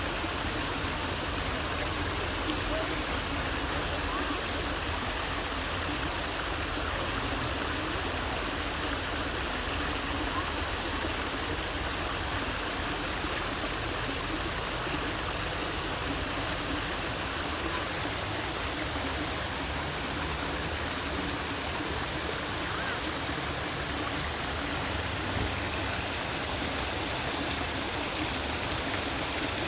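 Small waterfall: water falling and rushing steadily.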